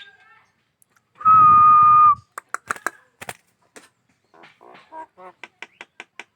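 Javan myna calling: one loud, steady whistled note lasting about a second, followed by dry clicking and rattling notes that settle into a fast, even series of about five a second in the second half.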